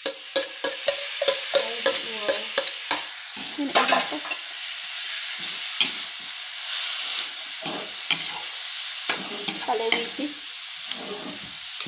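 Sliced beef sizzling in a wok while a spoon stirs it, clicking and scraping against the pan. The clicks come thick and fast in the first four seconds and are scattered after that, over a steady frying hiss.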